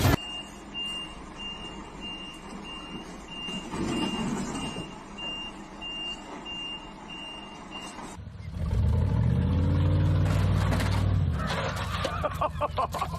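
Vehicle reversing alarm beeping steadily, a high tone about two to three times a second. After about eight seconds it cuts off and a louder vehicle engine takes over, its pitch shifting up and down.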